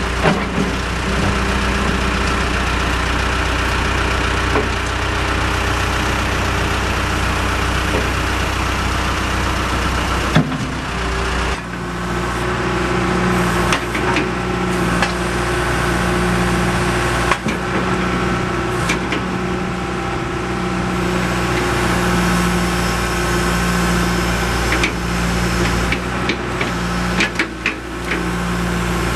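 John Deere 310G backhoe loader's diesel engine running steadily. Its note changes about a third of the way through, with a few short knocks along the way.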